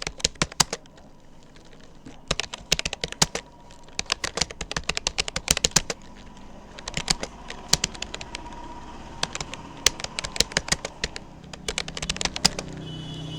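Typing on a Rapoo computer keyboard: quick runs of key clicks in bursts of a second or two, with brief pauses between words. A faint steady hum comes in near the end.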